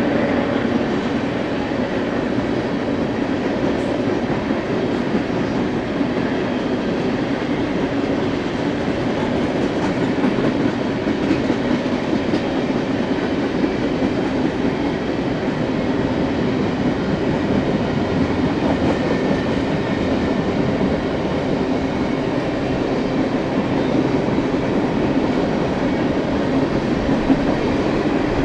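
BNSF freight train rolling past, a steady rumble of its cars on the rails.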